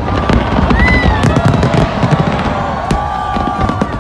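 Fireworks display going off: a dense run of bangs and crackles over a constant low rumble, with some held tones gliding in pitch.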